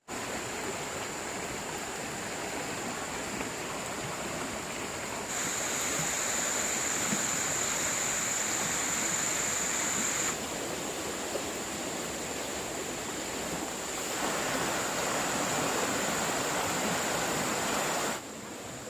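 Rushing water of a flooded stream, a steady noise with a thin high-pitched tone running through it. The water gets louder or softer in sudden steps every few seconds.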